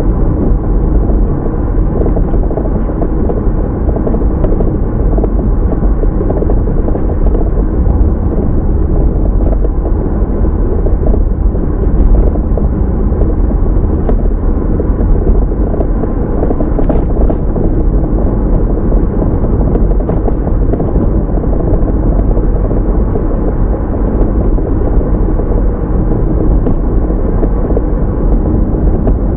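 Car driving along the road, heard from a dashcam inside the cabin: a steady, loud rumble of road, tyre and engine noise.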